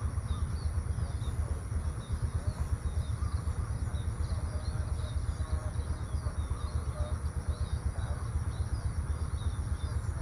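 Many small birds chirping and twittering over a low, continuous rumble, with a steady high-pitched hum running underneath.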